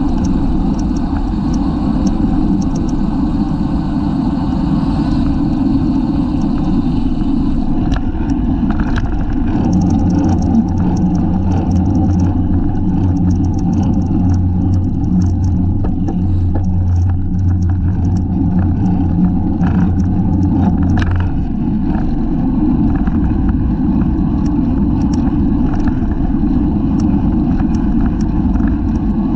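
Wind rushing over a bicycle-mounted camera's microphone at racing speed, with road rumble and scattered small ticks and rattles. A steady low hum joins in about ten seconds in and stops about ten seconds later.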